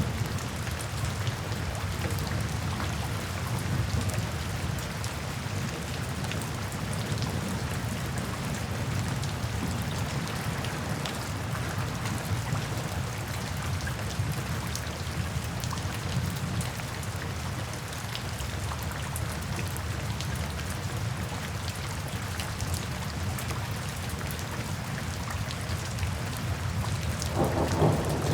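Steady rain falling into puddles and standing water, with many small drop splashes. Near the end a deeper rumble of thunder swells up.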